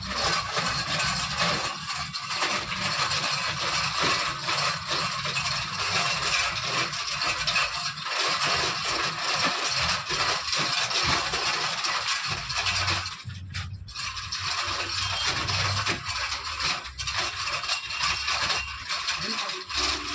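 Continuous mechanical grating and rattling noise that breaks off briefly about two-thirds of the way through, then resumes.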